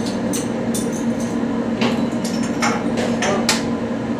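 Hand tools tapping and clinking on metal turbocharger parts: about ten sharp metallic strikes at irregular intervals. A steady low hum runs underneath.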